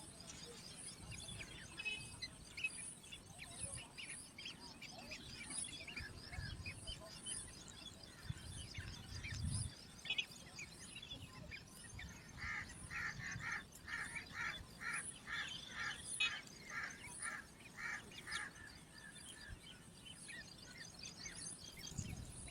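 Small birds chirping: a fast, high trill for the first several seconds, then a run of repeated chirps at about two a second in the second half.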